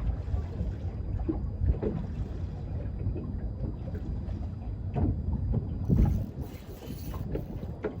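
Low, uneven wind rumble on the microphone aboard a small fishing boat, with irregular knocks and a louder thump about six seconds in.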